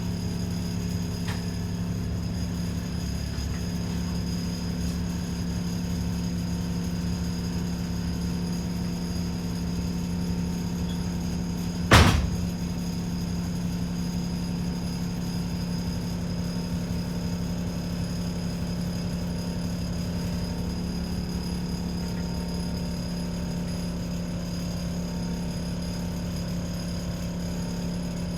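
ADL Enviro 400 double-decker bus engine running at a steady, unchanging pitch, heard from inside the bus. A single sharp knock sounds about twelve seconds in.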